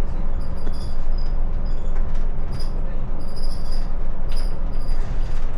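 Steady low rumble of a vehicle on the move, with short high chirps or squeaks recurring over it.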